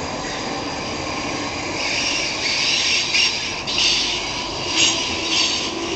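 South West Trains Class 458 electric multiple unit pulling out past the platform: a steady rumble of wheels on rail with a thin steady whine. From about two seconds in come repeated loud hissing, rasping bursts, the loudest near the five-second mark.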